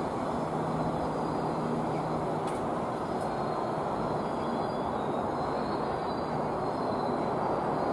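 Greater Anglia Class 317 electric multiple unit moving off away along the line: a steady rumble, with a low hum through the first couple of seconds.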